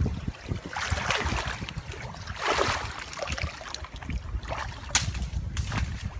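Water sloshing and splashing in two swells, over a low rumble of wind on the microphone, with a sharp click near the end.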